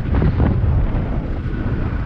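Heavy wind buffeting on the helmet microphone while riding a motorcycle, with the engine running steadily underneath.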